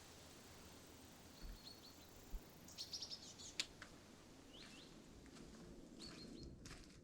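Small birds giving short, high chirps several times over a faint, steady forest background hiss, with one sharp click a little past halfway.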